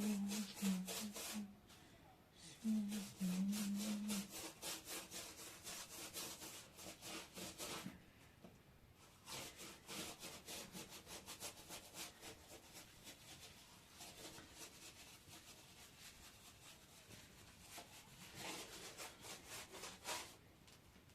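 Rapid, even rubbing or scraping strokes, about five or six a second, made by hand. They stop for about a second some eight seconds in, then go on, fading somewhat before growing stronger again near the end.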